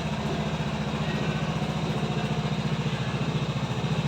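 Motorstar Easyride 150Fi's fuel-injected 150 cc engine idling steadily with an even, rapid putter.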